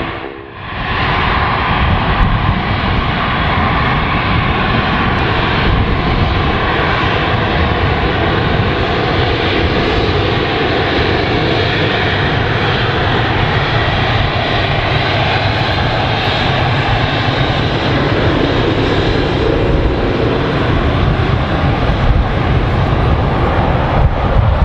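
Embraer E195LR airliner's twin turbofan engines (GE CF34-10E) running loud and steady, a deep rumble under a broad hiss.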